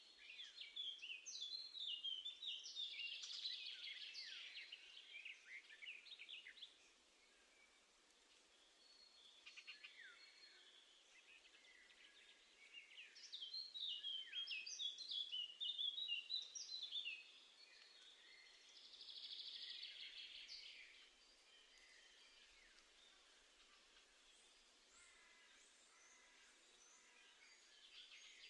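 Small songbirds singing in bursts of rapid, high chirping notes, each burst lasting a few seconds, with quiet stretches between.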